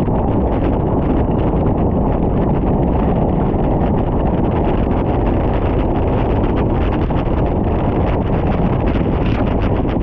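Steady wind buffeting on the microphone of a bicycle descending at speed.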